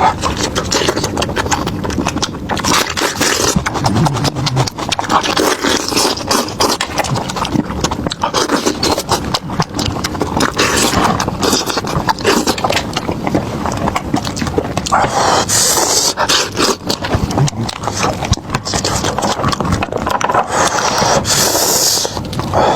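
Close-miked eating sounds: continuous chewing and crunching, thick with small crackling clicks.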